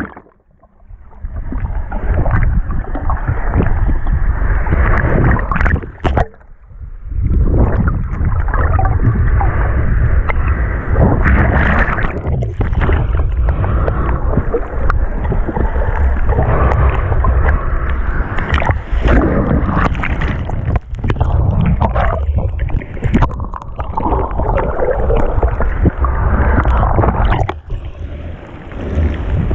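Sea water sloshing and churning close around the microphone, with wind buffeting it. The noise is loud and dense, and drops out sharply near the start and again about six seconds in.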